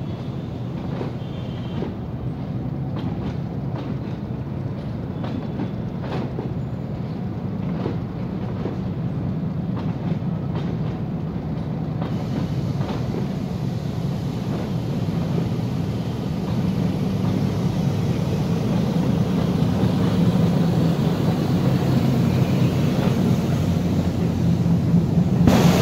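Empty Chinese-built passenger coaches rolling past on the rails, wheels clicking over the rail joints, with a steady low engine rumble under it. It grows louder in the second half as the diesel locomotive draws near.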